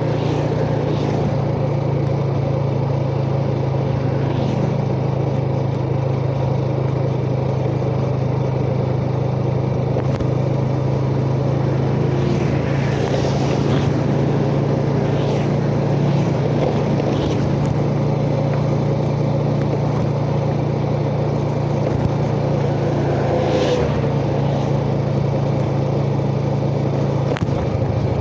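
Yamaha Jupiter Z underbone motorcycle's single-cylinder four-stroke engine running at a steady speed while riding, heard from the rider's chest. Two brief hissing swells come about halfway through and again near the end.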